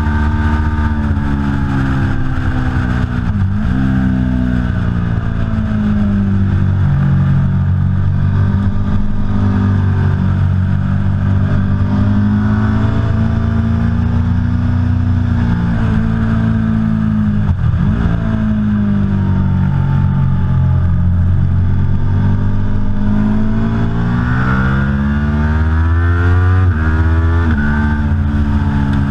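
Aprilia Tuono V4 Factory's V4 engine under hard riding on a race track, its pitch climbing and falling as it is worked through the gears. Three times the pitch dips sharply and climbs back: about three seconds in, near the middle and near the end.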